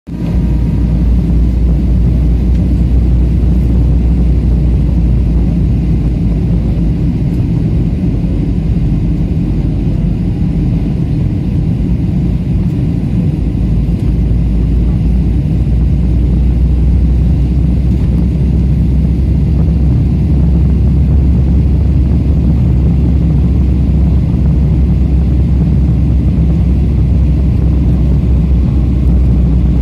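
Steady low rumble of an airliner's jet engines and airflow, heard inside the passenger cabin in flight.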